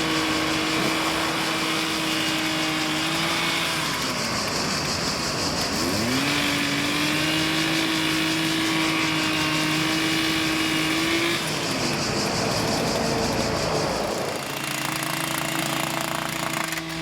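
Colmar rail-road excavator's diesel engine and hydraulics working under load, revving up and holding, then dropping back, twice over as the machine works.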